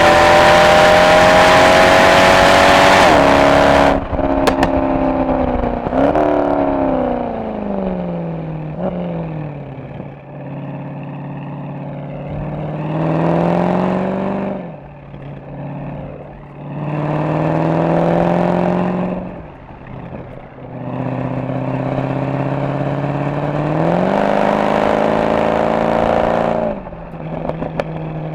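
Mercedes-AMG SL63's V8 exhaust under hard acceleration, rising in pitch, then lifting off about four seconds in with a few crackles as the revs fall away. After that come two short pulls that rise and drop, and a longer pull that cuts off near the end.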